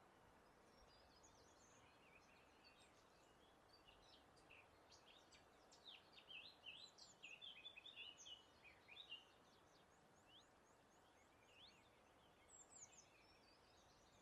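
Faint birdsong: several small birds chirping and twittering in quick, high notes, busiest in the middle, with a short run of rapid repeated notes later on, over a soft steady background hiss.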